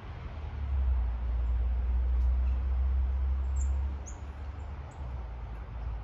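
Low rumble, strongest for the first four seconds and then easing, with a few short, high chirps from small birds about three and a half to four seconds in.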